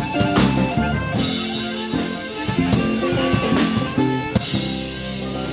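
Live band playing on without vocals after the last sung line of a song, with a drum kit keeping the beat under guitar and other amplified instruments, and cymbal crashes throughout.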